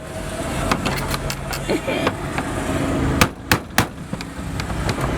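A series of sharp knocks or clicks over a steady low hum, with three loud knocks close together about three seconds in.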